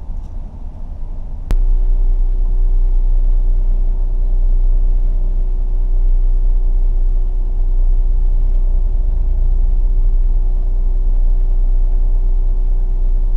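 Car driving, heard from inside the cabin: a steady low road rumble. About a second and a half in there is a sharp click, after which the rumble is louder and a steady hum runs under it.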